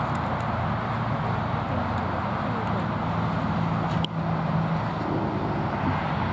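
Steady road traffic rumble, with a brief click about four seconds in.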